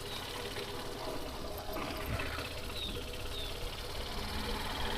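Faint, steady low rumble of road and wind noise while riding.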